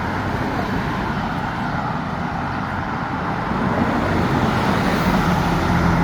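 Street traffic running past, with a motor vehicle's engine drone growing louder toward the end.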